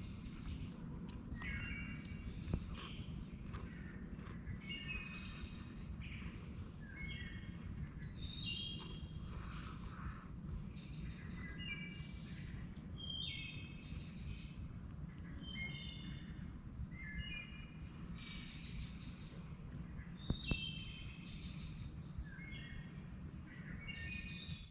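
Birds singing in short repeated phrases of stepped, falling notes, over the steady high drone of crickets or other insects and a low steady rumble.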